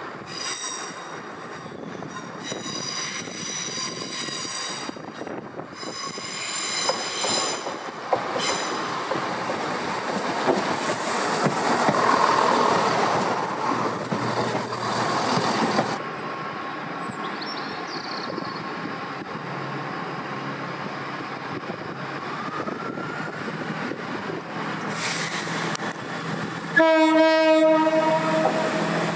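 Train wheels squealing in high-pitched spells through the first eight seconds, then the rising rush of a diesel train running through the station, loudest around twelve seconds in, which stops abruptly. After that a diesel train runs at a steady low hum, and near the end it sounds one loud horn blast of about two seconds.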